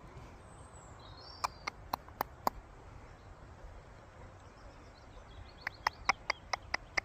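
Two quick runs of short, sharp clicks, about five near the start and about seven near the end, over faint birdsong outdoors.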